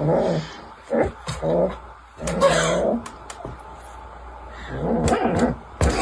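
Angry cat growling and yowling in four drawn-out calls, with a sharp click just before the end.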